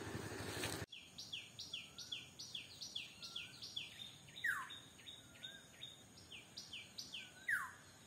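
Outdoor background noise cuts off abruptly about a second in, leaving a bird calling faintly: a rapid string of short repeated notes, about three a second, with two downward-sweeping whistles in the second half.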